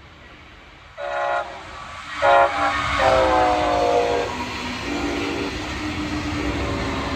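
Locomotive horn sounding as a train approaches: two short blasts, then a longer one that drops in pitch as the train goes by. The train's steady rumble and rail noise follow.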